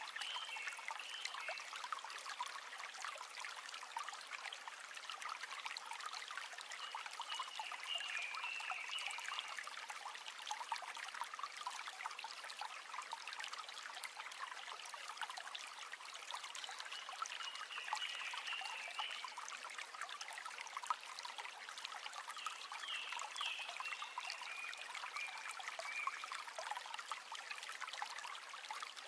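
River water flowing and trickling over stones, a steady splashing rush. A bird sings short, high warbling phrases about four times.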